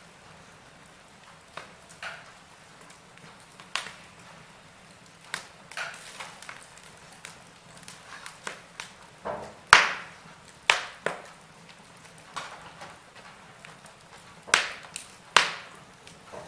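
Wood fire in a fireplace crackling, with irregular sharp pops over a faint hiss; the loudest pops come about ten seconds in and twice more near the end.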